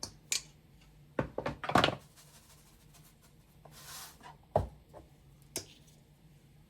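Kitchen handling sounds: a run of light knocks and clatters, loudest about a second and a half in, a short soft rustle around four seconds, then a single thud and a click as things are set down.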